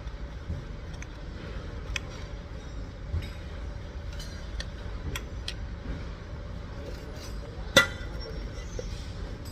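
Scattered light clinks and taps of hard objects, glass or metal, with one sharper, louder knock near the end, over a steady low rumble.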